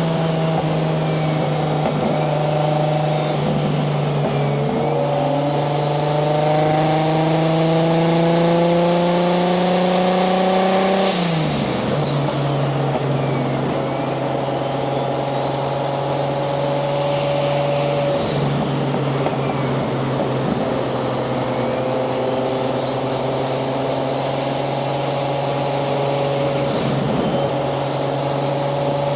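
Nissan 240SX's swapped Toyota 1JZ VVTi turbocharged straight-six cruising. The engine note climbs slowly, drops sharply about eleven seconds in, then holds steady, with a high whine rising and falling above it.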